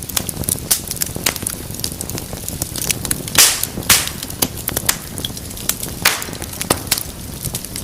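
Wood fire in a fireplace crackling steadily over a low rumble, with many small sharp pops and a few louder snaps about three and a half, four and six seconds in.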